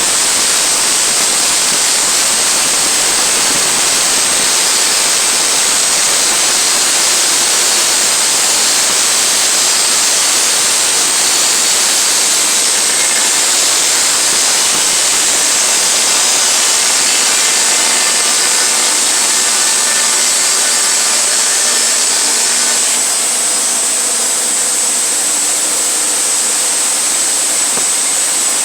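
Sawmill running and cutting through a log: a loud, steady saw-and-engine noise that drops slightly about 23 seconds in.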